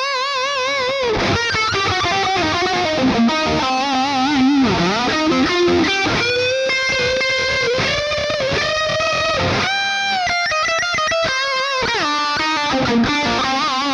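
Distorted high-gain electric guitar, aimed at a Peavey 5150 amp tone, playing a lead line. Held notes are shaken by wide vibrato, with bends, slides and fast runs of short notes; there is a long sustained passage in the middle, and a falling slide near the end.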